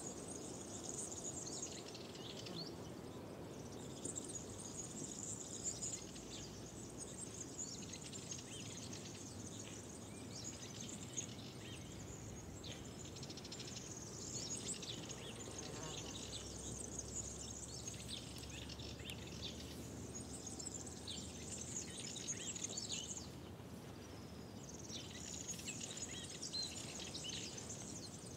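Songbirds singing and calling, a dense mix of overlapping chirps and trills with short lulls, over a steady low outdoor background.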